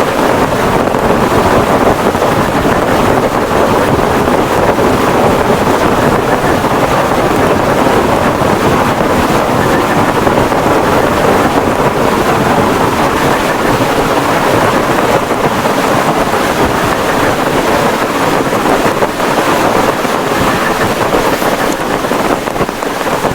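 Heavy rain and strong wind in a storm, a loud steady rush with no letup.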